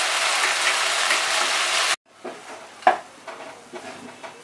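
Ground spices, tomato and ginger paste sizzling in hot mustard oil in a nonstick pan: a steady, loud hiss that cuts off abruptly about two seconds in. Then a much quieter stretch with a spatula knocking and scraping in the pan.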